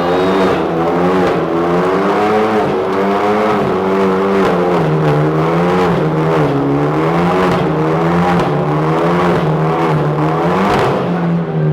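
Car engine held at high revs during a burnout, its pitch rising and falling about once a second over a rushing hiss.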